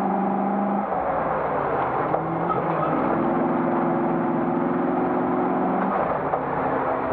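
Classic Range Rover's 3.9-litre V8 engine running hard under racing load, with steady road noise. Its pitch drops about a second in, climbs to a higher steady note around three seconds in, and drops again near the end.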